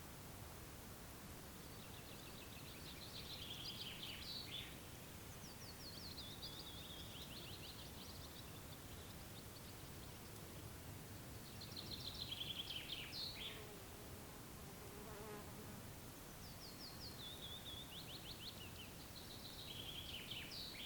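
A songbird sings four short phrases of rapid, mostly descending high notes, the third the loudest. Flies and other insects buzz faintly underneath, one briefly passing low about two-thirds of the way through.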